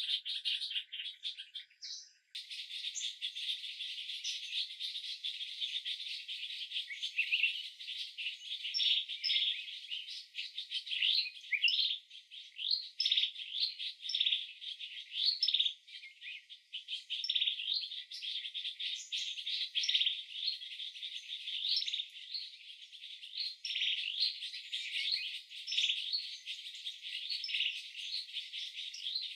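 Birds chirping, many short quick calls over a steady high hiss, sounding thin with all the low sounds missing; a brief drop-out about two seconds in.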